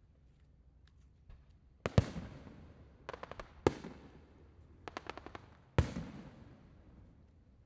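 Aerial fireworks shells bursting: three loud booms about two seconds apart, each trailing away, with quick runs of smaller cracks in between.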